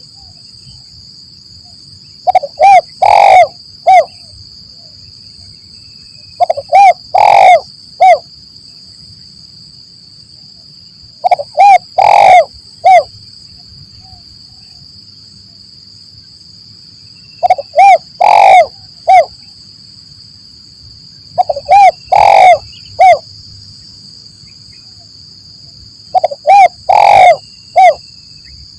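Spotted dove (tekukur) cooing: six short phrases of a few coos each, repeating about every four to five seconds, with a steady high-pitched tone running behind them.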